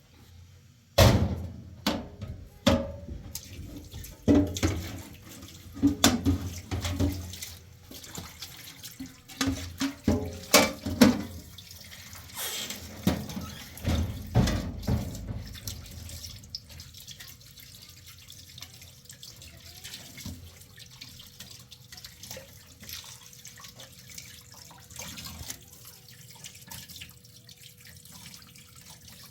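A busy run of sharp knocks and clattering, thinning out about halfway through into a steady hiss like running water, with a faint steady hum underneath.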